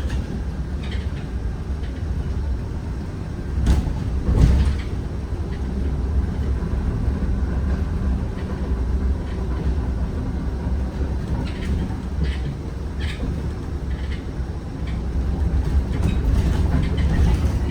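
Zhongtong N12 bus heard from inside the cabin while on the move, a steady low rumble. A couple of louder knocks come about four seconds in, and a few light ticks follow later on.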